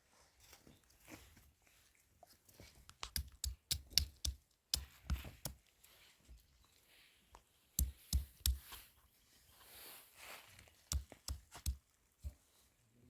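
Irregular sharp knocks and crunches in clusters, with quieter scuffing between them.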